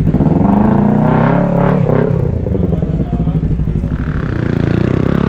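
Superbike engine revving: the pitch rises sharply in the first second or two, then falls back to a steadier low running, and rises again near the end.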